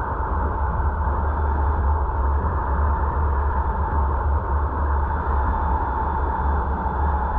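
Steady road and wind noise of a car driving, picked up by a dashcam microphone: a constant low rumble under an even hiss, with no change in speed or gear.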